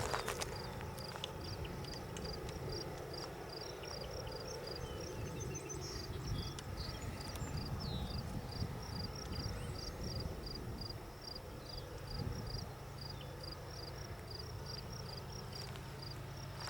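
Insect chirping in a steady, even rhythm of about three or four short high pulses a second over a steady low rumble, with a few brief bird chirps in the middle.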